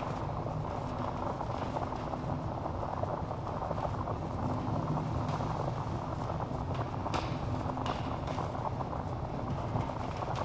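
Wood fire burning in a fireplace, logs crackling continuously with many small snaps. A few louder pops stand out, the clearest about seven seconds in.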